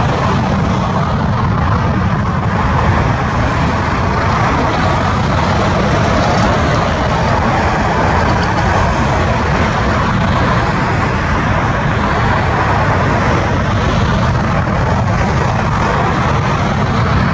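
Airliner jet engines running with a steady, loud noise and a heavy low rumble: an Airbus A350-941, its Rolls-Royce Trent XWB turbofans.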